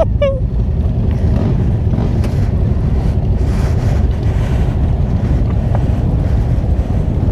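Motorcycle engines rumbling steadily, a group of Harley-Davidson V-twins among them, with wind buffeting the helmet microphone.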